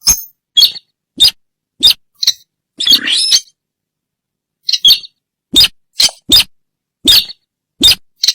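Sintar bird lure call played back loudly: a run of short, sharp, squeaky calls about every half second, some doubled, with a pause of about a second partway through.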